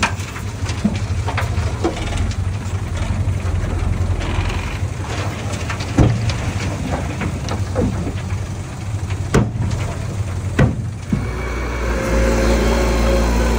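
Diesel engine of a small bulldozer running under work, with frequent clanks and knocks of metal and rock; three sharper knocks stand out in the middle. About eleven seconds in, the sound changes to a steadier, evenly pitched engine hum.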